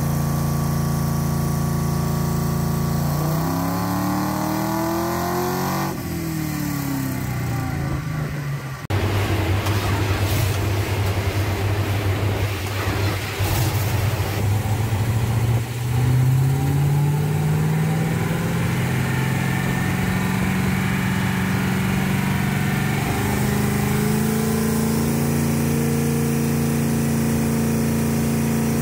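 Small-block Mopar V8 of a Chrysler Valiant VH Charger running on a hub dyno, revving up and falling back several times, then held at a steady higher engine speed near the end.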